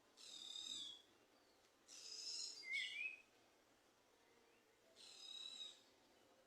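A small songbird singing three short, high, faint song phrases a couple of seconds apart. The middle phrase ends in a sharp, lower note.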